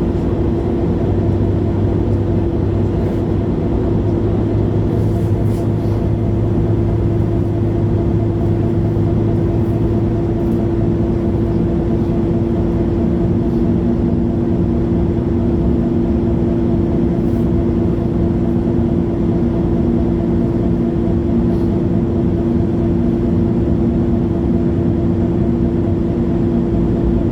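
Interior sound of a 2011 MAN A23 Lion's City G articulated city bus on the move: the engine and drivetrain run steadily with a constant tone. The lower engine note shifts about halfway through.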